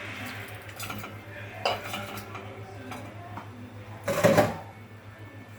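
Metal cookware clattering against a cooking pot as shrimp go into melted butter: a knock about a second and a half in and a louder clatter about four seconds in, over a steady low hum.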